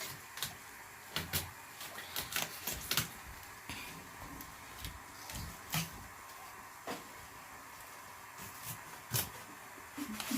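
Scattered light knocks and clicks, about a dozen, irregularly spaced, over a quiet steady background.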